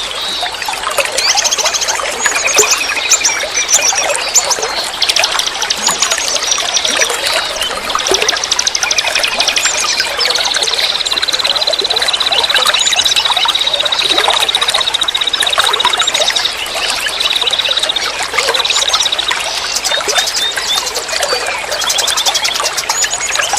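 Forest stream water flowing and trickling steadily, with several songbirds calling over it in short chirps and trills. About ten seconds in, one bird gives a long, even trill at a steady high pitch that lasts about eight seconds.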